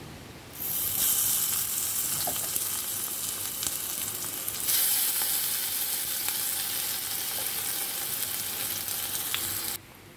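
Tomato slices sizzling as they fry in hot oil in a frying pan. The sizzle starts about half a second in, gets louder midway, and cuts off suddenly near the end.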